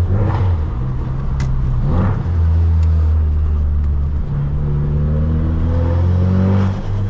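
Tuned Ford Focus RS engine running under throttle while driving, a deep steady drone. Its pitch climbs slowly in the second half, with short breaks about two seconds in and again near the end.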